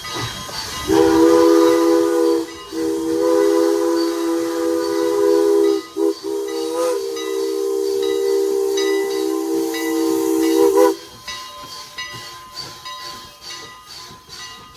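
Steam locomotive's chime whistle blowing a chord in two long blasts, a short one and a final long one: the grade-crossing signal. Steam hiss and rail clatter are heard around it.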